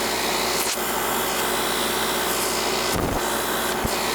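Coleman air-conditioning condensing unit running: the steady rush of the condenser fan with a low compressor hum while the system is being charged with refrigerant. Two brief low thumps about three and four seconds in.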